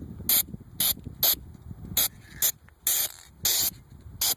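Aerosol can of dry spray lubricant hissing in about eight short spurts, a few held a little longer, as it is sprayed onto the stretcher mount's alignment pins and plate to cut friction.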